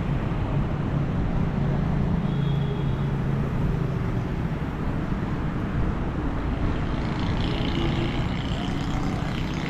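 Steady road traffic on a wet city street: vehicle engines running and tyres passing, with a low engine hum that fades about halfway through.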